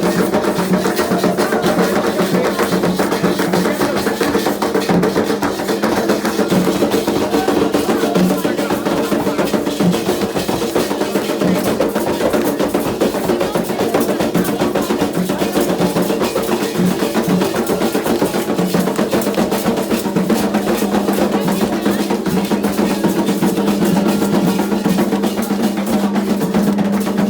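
Candomblé ritual drumming: atabaque hand drums played in a fast, continuous beat with steady held tones beneath, stopping just after the end.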